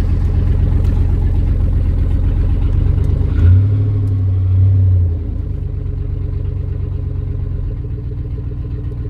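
Pickup truck's GM Vortec engine idling steadily, with one short rise in engine note about three and a half seconds in before it drops back to idle. The exhaust is missing what the owner guesses is one of its mufflers; he says it sounds good.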